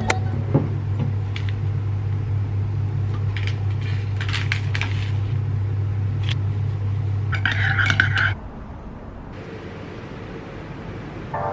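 Scattered light clinks and clatters over a steady low hum; the hum cuts off suddenly about eight seconds in.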